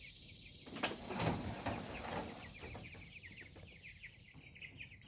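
Young Cornish Cross meat chickens peeping continuously in short falling chirps, with a burst of wing-flapping and scuffling about a second in as a bird is handled.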